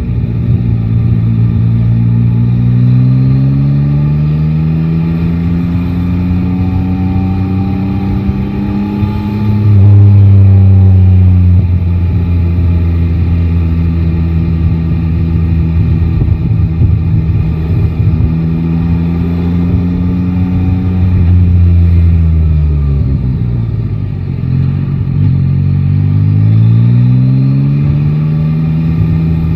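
Yamaha Tracer 9 GT's three-cylinder engine on the move, heard from the rider's seat: the engine note climbs under acceleration, then drops sharply and is loudest about a third of the way in, runs steadily, falls away as the bike slows, and climbs again near the end.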